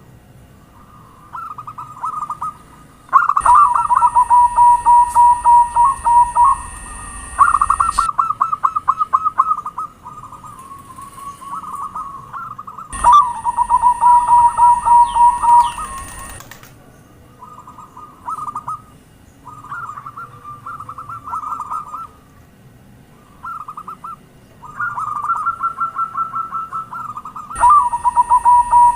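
Zebra doves (perkutut) calling: bout after bout of fast, staccato cooing phrases, a second or two each, with short gaps between. The three loudest stretches come with a steady high-pitched whine in the recording behind them.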